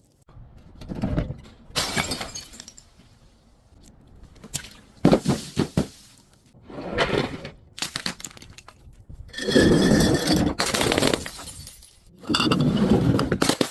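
Glass bottles breaking and being crushed in a series of separate crashing, crunching smashes. The longest and loudest comes about two-thirds of the way through.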